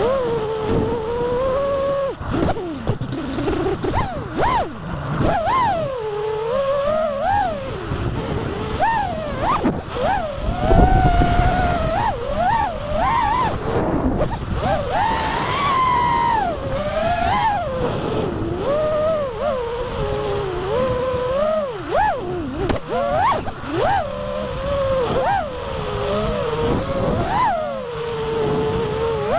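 FPV quadcopter's brushless motors whining, the pitch swooping up and down with each throttle change during flight, with a louder surge about eleven seconds in.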